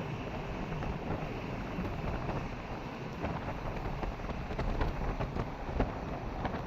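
Wind buffeting the microphone: a gusty low rumble with scattered crackles.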